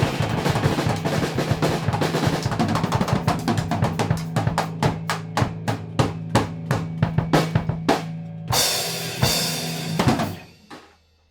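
Rock band ending a song: the guitars and bass hold one low chord while the drum kit plays a long roll of hits on snare and bass drum. Two-thirds of the way in, a final crash rings for about two seconds, then everything is cut off and dies away.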